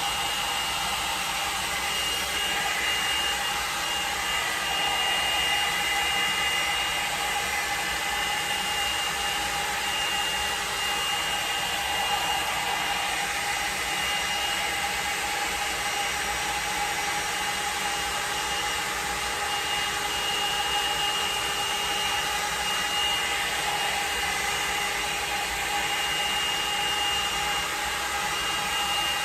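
L'ange blow dryer brush running steadily: a constant rush of blown air with a steady high motor whine.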